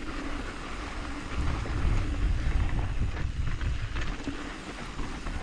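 Mountain bike riding over soft, loose trail dirt: tyre and ride noise with wind rumbling on the microphone, swelling louder for a couple of seconds in the middle.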